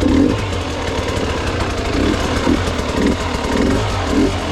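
Gas Gas EX 300 two-stroke enduro motorcycle engine running under way, with short, uneven bursts of throttle.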